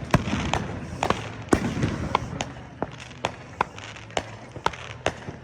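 Fireworks and firecrackers going off in the distance, about a dozen sharp, irregular pops and bangs over a hissing crackle.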